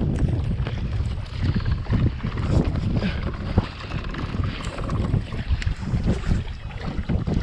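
Strong wind buffeting the camera microphone in gusts, with scattered short knocks and clicks.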